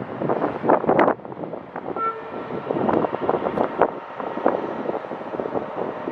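A train moving through the station under heavy wind buffeting on the microphone, with a short pitched tone about two seconds in.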